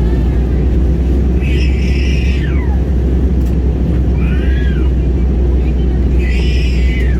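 Airliner cabin noise in flight: a steady, loud low rumble of the engines and airflow. Over it, three short high cries that rise and fall, about one and a half, four and a half and six and a half seconds in.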